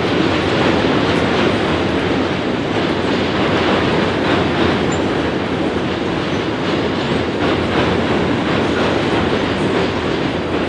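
Freight cars of a long mixed train rolling over a steel truss bridge: a steady rumble of wheels on rail with light clicking.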